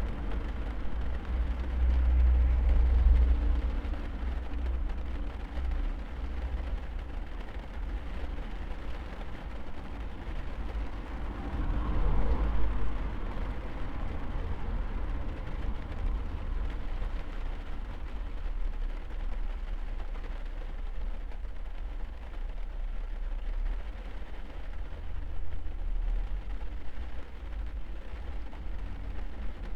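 Rain falling on a car's roof and windows, heard from inside the cabin: a steady hiss over a deep low rumble, swelling briefly about twelve seconds in.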